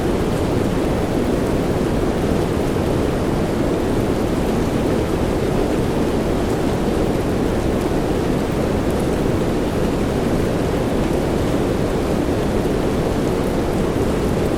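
Soft rain blended with white noise: a dense, even, low-pitched hiss that holds steady, with no separate drops or claps standing out.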